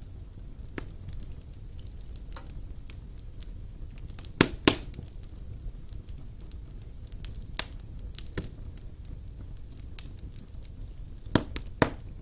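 Wood fire burning in a fireplace: a low steady rumble of flames with irregular crackles and sharp pops from the burning logs, the loudest a quick pair about four and a half seconds in and two more near the end.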